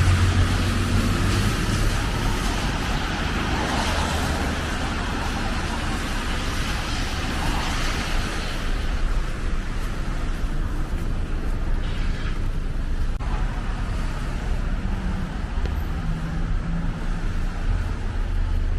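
Street traffic: a vehicle passing with engine hum and tyre hiss that fades out about halfway through, followed by a steady low traffic rumble.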